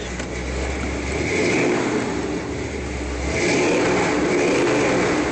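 Vehicle engine running and being revved twice, heard from inside the cab. Each rev swells about a second in and again for the last two seconds.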